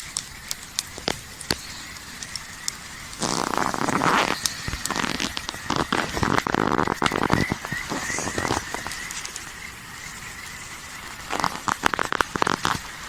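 Wood campfire crackling, with scattered sharp pops and several louder spells of dense crackling and hiss.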